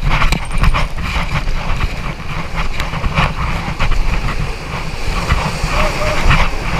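River rapids rushing and splashing against an inflatable raft, with a heavy rumble on the microphone and frequent sharp splashes.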